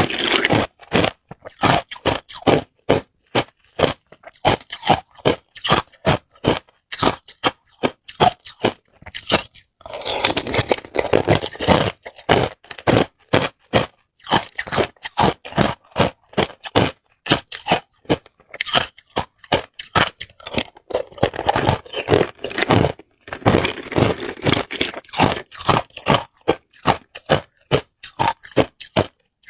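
Hard ice cubes being bitten and crunched between teeth: a quick, uneven run of sharp cracks and crunches, packed more thickly in a few stretches.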